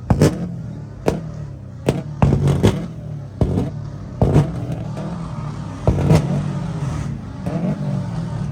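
A car engine running with a steady low rumble, punctuated by irregular sharp exhaust pops and bangs.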